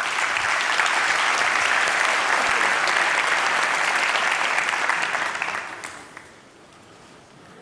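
Audience applauding steadily, dying away about six seconds in.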